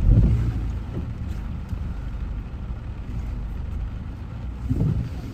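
Car driving, a steady low rumble of engine and tyres with road hiss over it. It swells louder briefly at the start and again near the end.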